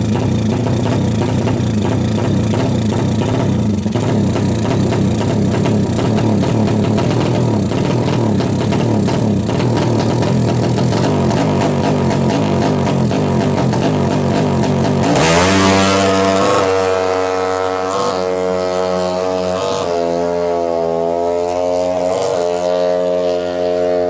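Kawasaki KLX 180cc drag-bike engine running loud, mixed with music. About two-thirds of the way in, the engine noise gives way to music with clear held notes that step up and down.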